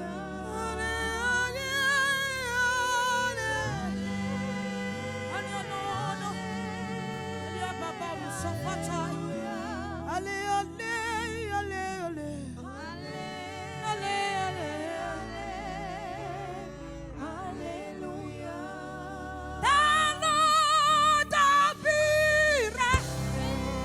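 Gospel worship singing: a solo voice carries a melody with wavering vibrato over sustained low instrumental backing. About twenty seconds in, it swells into louder, higher held notes.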